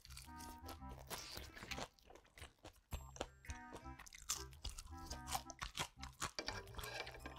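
Close-miked chewing and crunching of a crispy pan-fried shrimp and minari pancake (jeon), in several bursts of crunches, over light background music with a bass line.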